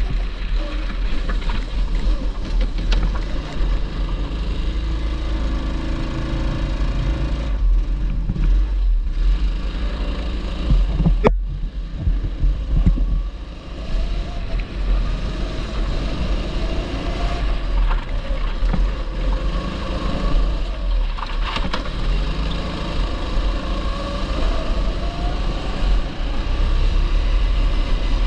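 TB 270cc rental kart engine running on track, its pitch climbing and dropping again and again as the throttle is opened and lifted, over a steady low rumble. A sharp click sounds about 11 seconds in.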